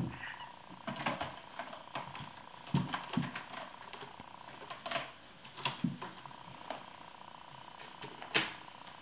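Bengal kitten playing and scrambling about, making irregular light clicks and scratchy knocks, about a dozen over several seconds.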